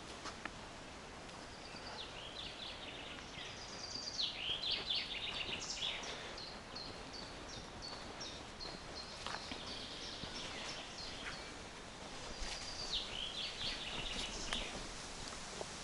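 Songbirds singing: bursts of quick high chirps and falling notes, with a run of evenly repeated short notes in between, over a faint steady hiss.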